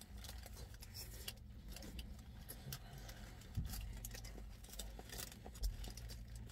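Faint chewing of a bite of fried chicken sandwich, with small clicks and rustles from its paper wrapper, over a low steady hum.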